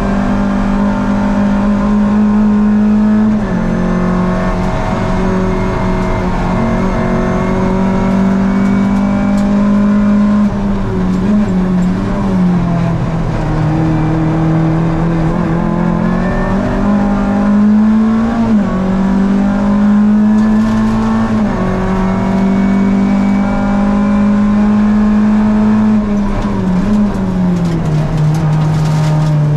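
Rally car engine heard from inside the cabin, running hard under load. Its note holds high and drops in pitch several times, at gear changes or lifts for the corners.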